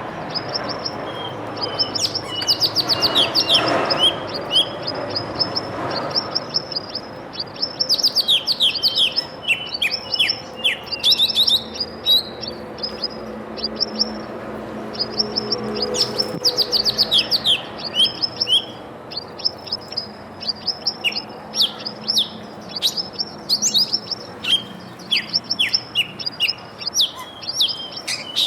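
Small birds chirping and twittering, with many short high chirps in quick succession and some quick falling notes.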